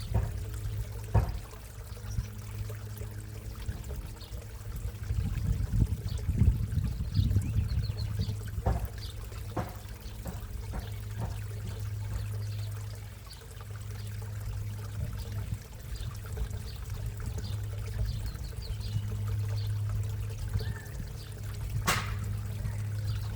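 Water trickling and pouring steadily into a backyard koi pond, over a low steady hum. A few sharp knocks sound through it, the loudest near the end.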